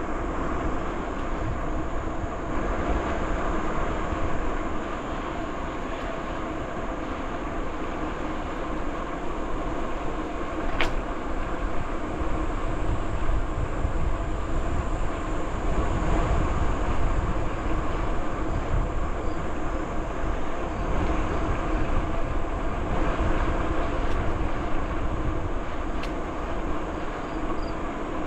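Steady rumble of a bicycle in motion, with tyres rolling on the trail and wind buffeting the microphone. A sharp click comes about eleven seconds in.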